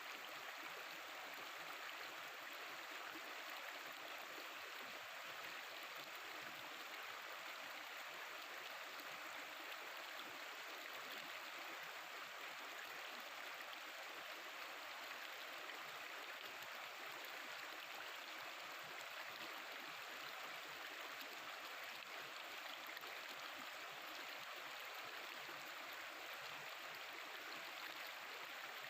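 Mountain river water flowing and babbling steadily over rocks.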